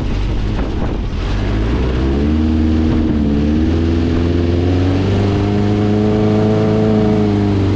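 Dune buggy's VW 1600cc air-cooled flat-four engine accelerating: it revs up in steps from about two seconds in, holds high, then eases off near the end.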